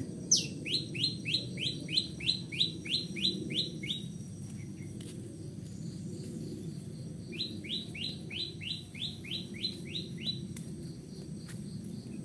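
A bird calling in two quick runs of short rising notes, about three or four a second. About a dozen notes come first, then after a pause of a few seconds a second run of about ten.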